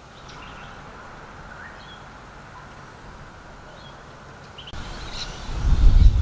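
Quiet bush ambience with a few faint bird chirps; about three-quarters of the way through, a low rumble of wind buffeting the microphone comes in and grows loud, with more bird calls over it.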